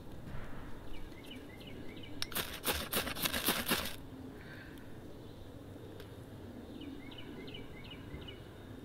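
Knife spine scraped hard and fast about ten times over a couple of seconds, a run of rough, sharp strokes making scrapings for fire-lighting. A small bird sings two short phrases of quick descending chirps, one before the scraping and one near the end.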